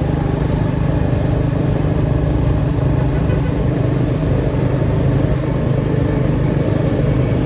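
Motorcycle engine running at a steady cruise, with wind and road noise.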